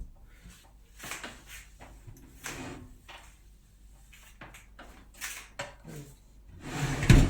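Short scuffs and rubs of a cleaning wipe being worked along a microwave's power cable, then a louder, heavier knock near the end as the item is set back in place.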